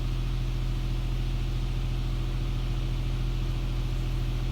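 Steady low hum of a car idling inside a touchless automatic car wash, with the wash's machinery and an even hiss of spray heard from inside the cabin.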